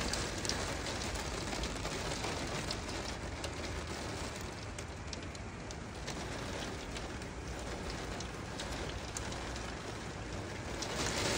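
Heavy rain pouring down: a steady hiss of rain with the sharp ticks of big drops hitting, growing louder near the end.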